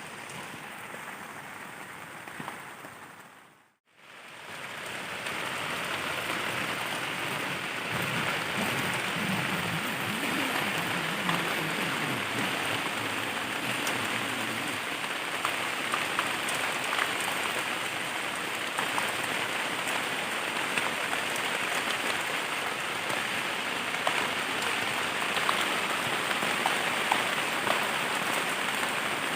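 Heavy rain falling on a dome tent, an even hiss of drops. It cuts out for a moment about four seconds in, then returns louder and holds steady.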